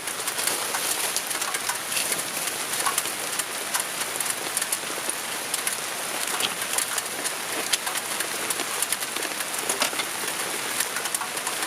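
Steady rain falling on a tarp, an even hiss with many separate drops ticking throughout.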